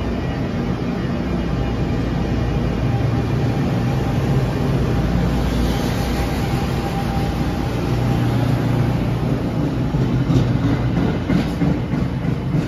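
NJ Transit Arrow III electric multiple-unit train pulling out of the station and picking up speed past the platform: a steady low rumble of the cars and wheels on the rails, with a few clicks of wheels over rail joints near the end as the last car goes by.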